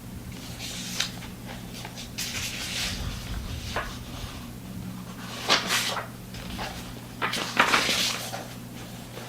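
Rustling and handling noises close to the microphone in several short bursts, with a few sharp clicks, over a steady low hum.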